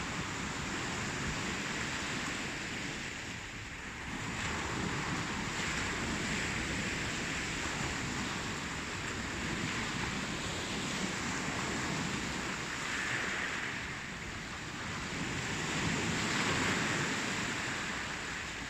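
Ocean surf: waves breaking and washing in a steady wash of noise that swells and eases every few seconds.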